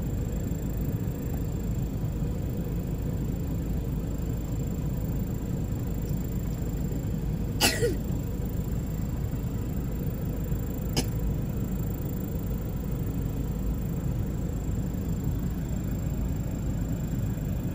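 Off-road 4x4's engine running with a steady low rumble, heard from inside the cabin. A short, sharp sound cuts in about eight seconds in, and a fainter click about eleven seconds in.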